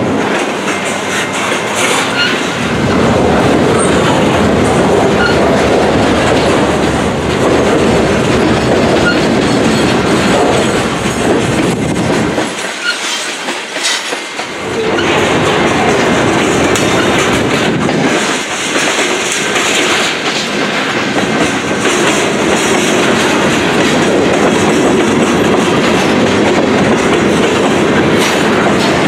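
Freight train of lumber-laden centerbeam flatcars and covered hoppers rolling past at close range: steady wheel-on-rail rumble with clickety-clack over the rail joints. There is a short drop in the sound about halfway through, where the recording cuts.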